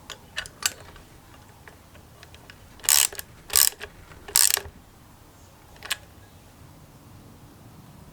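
Metal hand tools at work on a carburetor: a few light clicks, then three short, loud rasping bursts in quick succession, and one last click.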